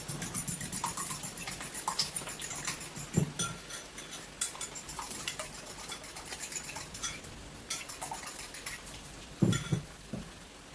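Kitchen utensils and dishes clinking and knocking during cooking: a quick run of light clicks over the first few seconds, a duller knock about three seconds in, and two louder knocks near the end.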